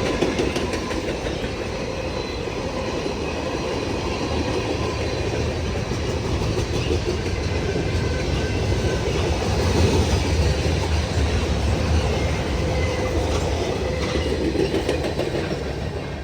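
A long freight train rolling past: the steel wheels of the freight cars click over the rail joints in a steady rumble, with a faint thin wheel squeal at times.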